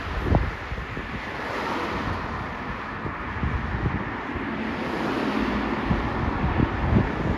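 Gusty wind buffeting the microphone, with uneven low thumps over a steady rushing noise.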